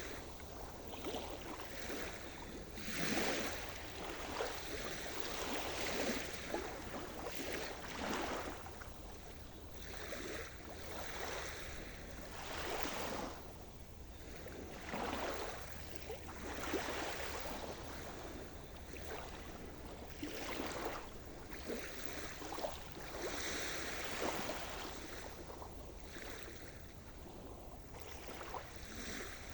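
Sea surf: waves washing and breaking on the shore, swelling and falling every second or two.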